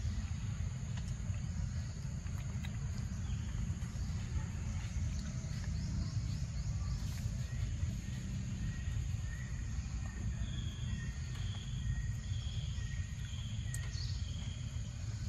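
Steady low outdoor rumble. About ten seconds in, a bird calls a run of short, evenly spaced high notes, a little more than one a second, for about four seconds.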